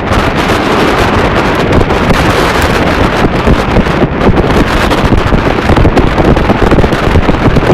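Loud, steady wind buffeting the microphone aboard a motor launch under way, with the boat's running noise mixed in beneath it.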